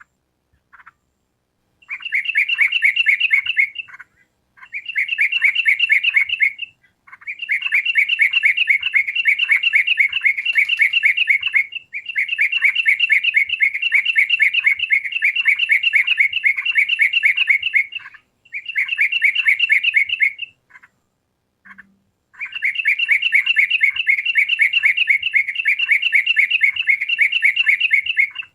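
Yellow-vented bulbul (trucukan) song: runs of rapid, evenly repeated chirping notes lasting a few seconds each, six runs broken by short pauses.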